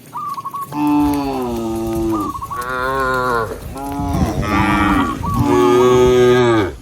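Cows mooing: three long, drawn-out moos one after another, with two cows calling over each other in the last one.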